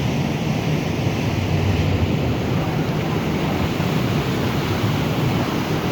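Steady wind rushing over the microphone, mixed with the low, even rumble of a passenger boat under way.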